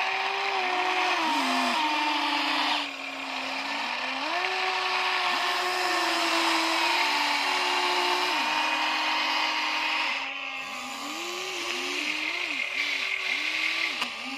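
Huina 1593 RC excavator's electric gear motors whining, their pitch rising and falling as motors start and stop in overlapping runs. The sound drops quieter briefly about three seconds in and again around ten seconds.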